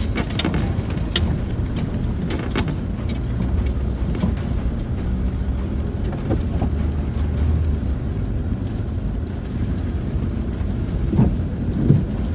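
Cabin noise of a Land Rover Discovery 4 driving slowly over a rough, wet off-road track: a steady low engine and tyre rumble with scattered knocks and clatter from the bumps, two louder knocks about a second apart near the end.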